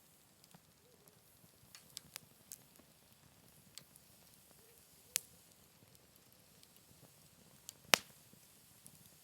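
Wood campfire crackling: sparse sharp pops and snaps at irregular intervals, the loudest about eight seconds in, over a faint steady hiss.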